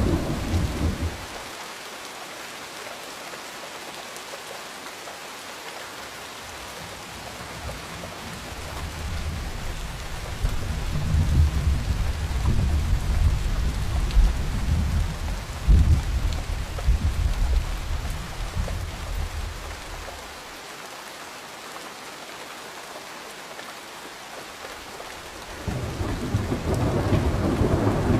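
Steady rain falling, with thunder. The thunder dies away within the first couple of seconds, returns as a long deep rumble building from about 8 seconds and fading by about 20, then rolls in again near the end.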